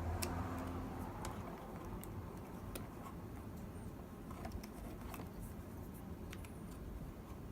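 Faint, scattered small clicks and taps of a SATA hard drive and its connectors being handled and plugged in, over a low steady hum.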